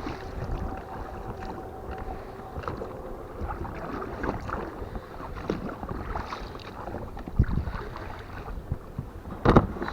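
Small boat being rowed: irregular oar splashes and knocks, with wind on the microphone and a sharper knock near the end.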